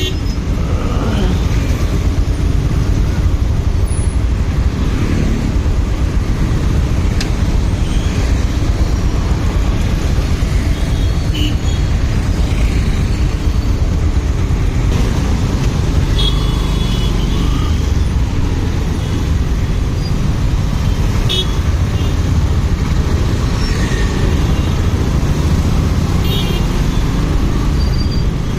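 Motorcycle ride through road traffic: a steady, loud rumble of engine and wind noise, with short horn beeps from nearby traffic around two-thirds of the way through and again near the end.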